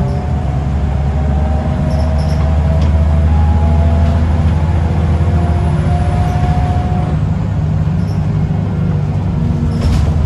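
Scania L94UB single-decker bus engine running hard under way, a steady low drone with higher whining tones drifting in pitch above it.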